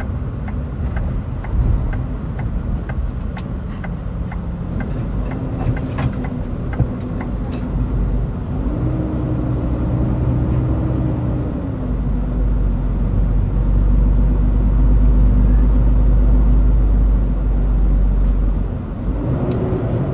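A vehicle engine running steadily under a low rumble, its pitch rising and settling twice as the speed changes. The rumble grows heavier midway. A regular ticking, about two a second, runs through the first few seconds.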